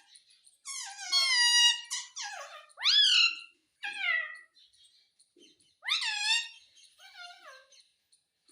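Pet parrot calling: a string of about six short, high squawks and whistles that sweep up and down in pitch, with pauses between them. The loudest come about a second and three seconds in.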